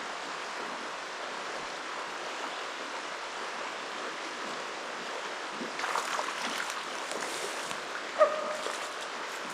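Steady rush of river rapids flowing. A patch of rustling and clicking comes about six seconds in, and a single short, sharp squeak-like sound about eight seconds in.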